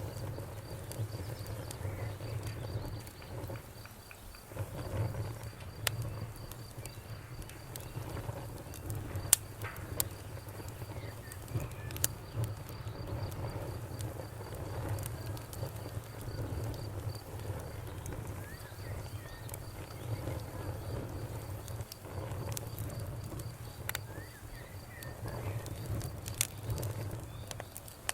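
Wood fire crackling with scattered sharp pops over a low steady rumble, while a cricket chirps in a fast, even pulsing trill.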